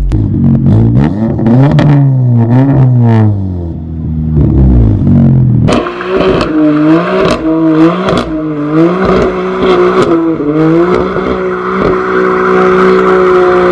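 Car engine revved hard over and over, its pitch climbing and falling with each blip of the throttle. About six seconds in, the sound cuts to a brighter, raspier rev. Near the end the engine is held at steady high revs before it drops.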